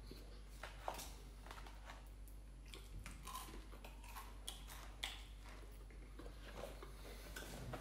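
Faint chewing and mouth sounds of a person eating fried chicken, with scattered small clicks and rustles as the food and its paper packaging are handled.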